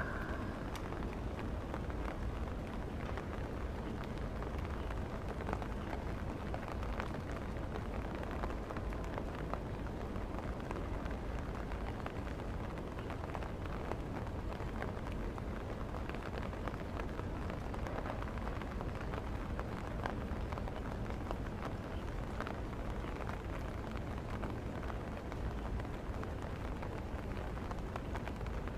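Steady rain falling, with scattered light ticks of drops over a low, even rumble.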